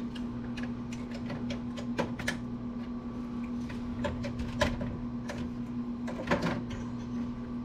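Scattered light clicks and knocks of computer parts being handled and pried at as a circuit board is worked loose from the case, over a steady low hum.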